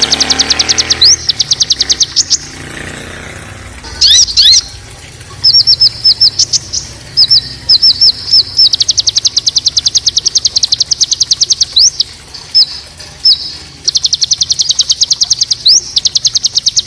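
A songbird giving rough 'tembakan' rapid-fire calls: fast trains of high, sharp, down-swept notes, about ten a second, in runs of one to three seconds broken by short pauses.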